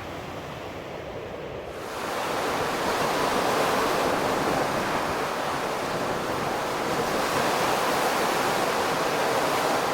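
Steady rushing noise of wind and surf on the coast, coming in abruptly about two seconds in after a quieter start.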